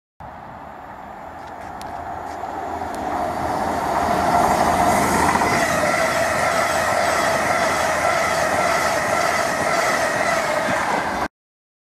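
Class 390 Pendolino electric express train passing through at speed: a rush of wheels on rails with a steady whine on top. It builds over the first few seconds, stays loud and steady, and cuts off abruptly near the end.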